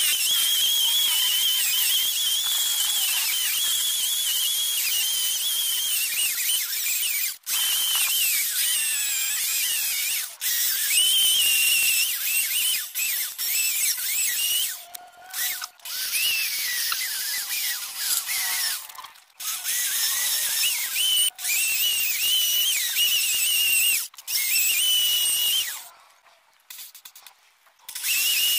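Electric drill used as a makeshift lathe, spinning a wooden piece while it is shaped: a high, wavering motor whine with cutting hiss that dips and rises with the load. It stops briefly several times and runs only in short spurts near the end.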